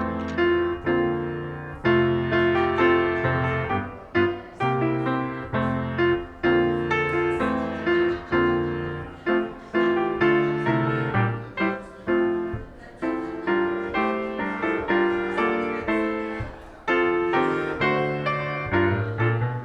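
Solo piano playing a slow, hymn-like piece: chords struck every half second to a second, each ringing and fading before the next.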